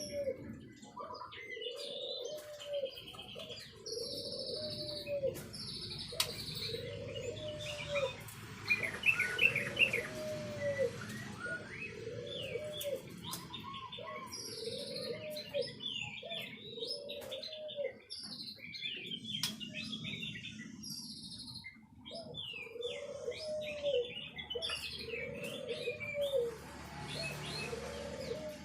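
White-rumped shama (murai batu) singing varied high whistles and quick trills, loudest about a third of the way in. Under it, a low cooing call repeats about once a second.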